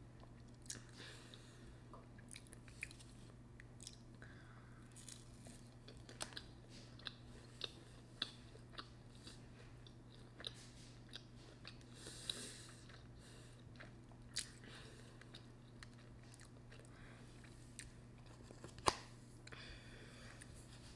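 Close-miked mouth sounds of someone chewing a mouthful of ramen noodles: many small wet clicks and smacks, over a steady low hum. One sharper click stands out near the end.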